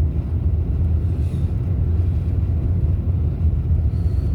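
Steady low rumble of a car being driven, heard from inside the cabin: engine and road noise with no sudden changes.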